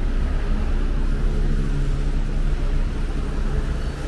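Street traffic: a motor vehicle's engine running close by with a steady low drone.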